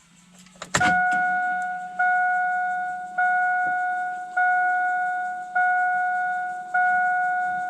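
Ignition switched on with a click, then the vehicle's warning chime dinging six times, about 1.2 seconds apart, each ding fading away. Under it a low steady hum of the electric fuel pump priming.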